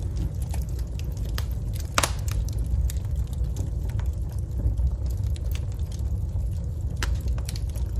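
Wood fire burning in a fireplace: a steady low rumble of flames with scattered sharp crackles and pops, the loudest about two seconds in.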